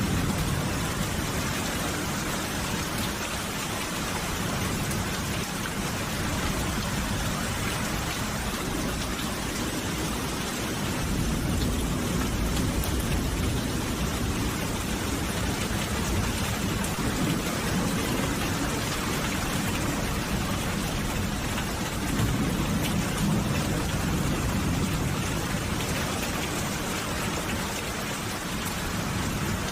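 Steady rain falling as an even hiss, with a low rumble swelling up a couple of times.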